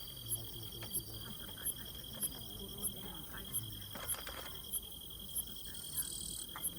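Insects chirping: a steady high trill under a regular chirp that comes about every two-thirds of a second, with faint murmuring voices underneath.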